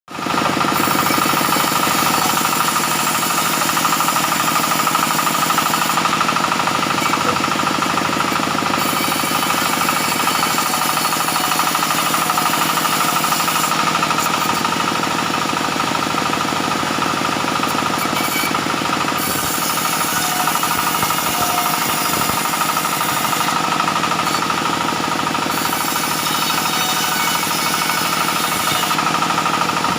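Sawmill machinery running steadily: a continuous rapid mechanical chatter with a steady whine over it.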